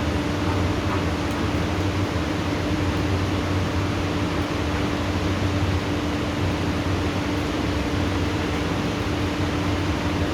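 Steady hiss of heavy rain during a thunderstorm, even and unbroken, with a constant low mechanical hum underneath. No thunder is heard.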